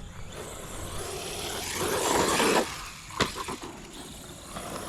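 ZD Racing DBX-10 1/10-scale RC desert truck running over dirt, growing louder to its loudest about two seconds in, then cutting off abruptly. A sharp knock follows a little after three seconds, with a few lighter rattles, as the stiffly oversprung truck bounces over the ground.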